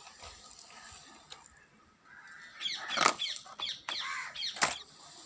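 Runs of quick, high, falling bird-like chirps, with two sharp clicks, the first about three seconds in and the second near the end.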